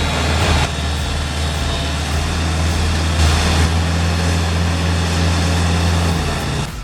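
Heavy machinery engine running steadily at a constant low pitch, with mechanical noise over it. It cuts off abruptly near the end.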